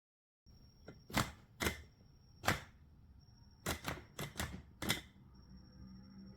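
About eight sharp plastic clicks and taps, irregularly spaced, from handling a cordless electric coffee grinder. No motor runs: the grinder is dead despite a full charge.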